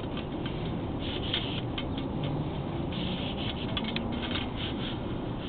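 Sewer inspection camera's push cable being pulled back out through a plumbing vent line: a steady low rumble with scattered light scratching clicks.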